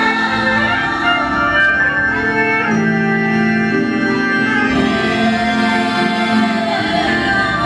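Organ music: held chords on an electric organ, changing every second or two.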